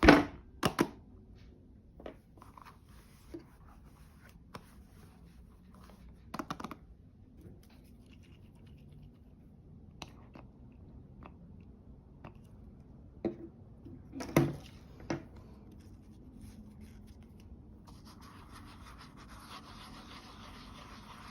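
Makeup containers and tools being handled, with scattered sharp clicks and taps, the loudest at the start and about 14 seconds in. Near the end a steady scratchy rubbing sets in.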